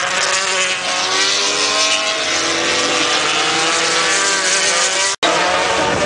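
Several racing motorcycle engines running at high revs at once, their pitch rising and falling as the bikes pass and shift. The sound drops out for a split second about five seconds in.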